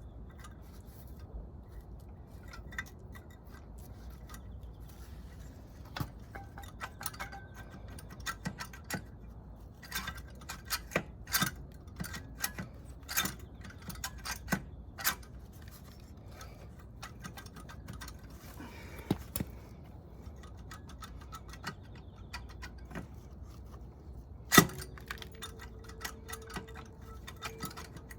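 Metal tools and small engine parts clinking and tapping in scattered clusters during motorcycle engine disassembly. Near the end one much louder metallic strike leaves a ringing tone that hangs for a few seconds.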